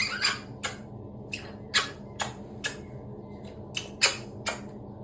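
Galah (rose-breasted cockatoo) making about ten short, scratchy squeaks, irregularly spaced.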